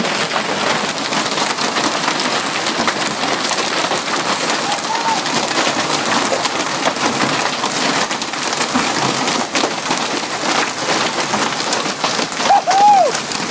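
Heavy hail coming down hard, a dense continuous clatter of countless sharp hailstone impacts. A short pitched cry rises and falls near the end.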